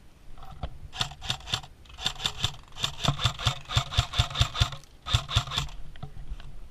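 Airsoft gun firing in four rapid bursts of sharp shots, about six or seven a second, the longest burst near the middle.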